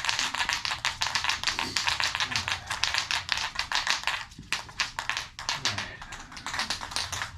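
Aerosol can of PJ1 foam air filter oil being shaken hard, its mixing ball rattling in rapid clicks that thin out in the second half. The can is cold, so it takes a lot of shaking to mix.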